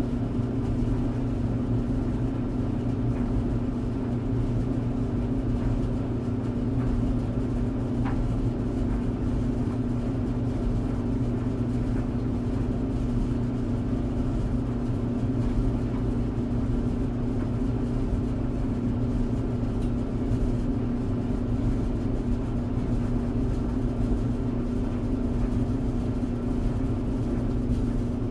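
Clothes tumble dryer running steadily: an even motor hum with a low rumble from the turning drum.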